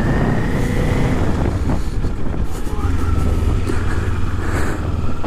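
Motorcycle engine running steadily while under way, a low even rumble mixed with road and wind noise.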